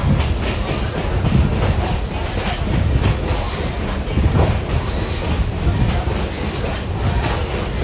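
Passenger train running along the track, heard from inside the coach: a steady rumble of the car and its wheels on the rails.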